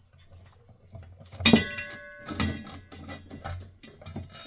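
Metal ceiling-fan parts being handled and fitted together: a sharp metallic clank about a second and a half in that rings briefly, followed by several lighter knocks and clinks.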